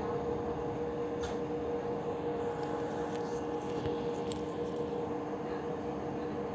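Steady hum and rumble inside a slowly moving commuter train carriage, with a few faint clicks from the running gear.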